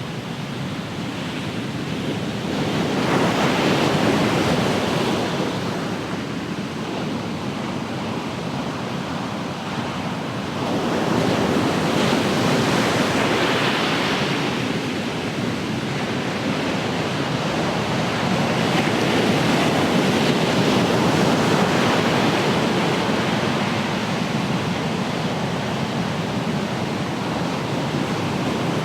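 Ocean waves breaking and washing on the shore: a continuous rush of surf that swells about three seconds in and again around eleven seconds, with light wind on the microphone.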